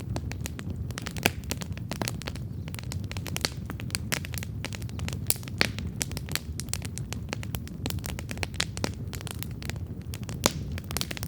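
Wood campfire burning, with dense crackling and a few louder sharp pops over a steady low rumble of the flames.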